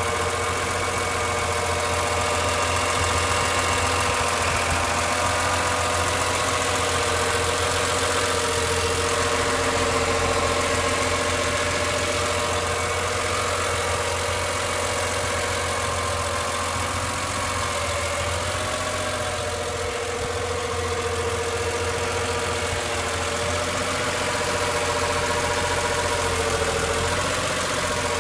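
BMW E46 M3's S54 straight-six idling, with a steady whirring whine from the engine bay riding over the idle. The whine holds its pitch and wavers slightly a couple of times.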